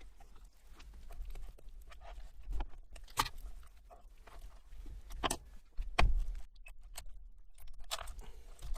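Fillet knife cutting through a rockfish's pin bones and flesh, making a few scattered sharp clicks and scrapes, the loudest about six seconds in.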